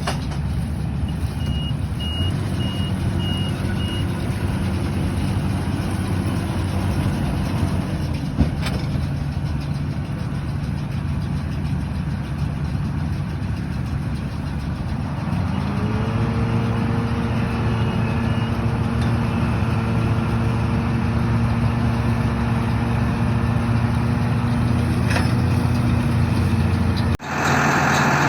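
YTO-1304 tractor's diesel engine running steadily; about halfway through its pitch rises and holds higher as the engine speeds up. About a second in, a short row of high beeps lasts a few seconds, and near the end the engine sound changes abruptly.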